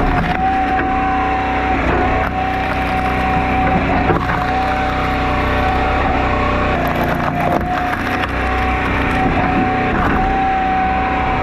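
An engine-driven log splitter runs steadily with a constant whine, while firewood cracks and splits apart several times.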